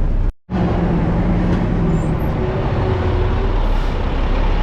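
Vehicle engine running with a steady low drone, cut off for a moment near the start by an edit before running on.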